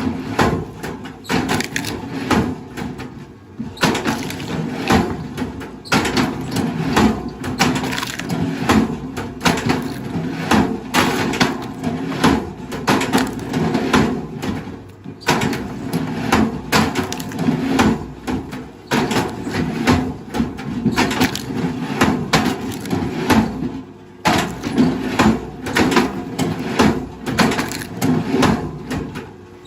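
Wood cracking and splintering in a dense, irregular run of snaps as heavy machinery breaks up timber, over a steady low engine drone.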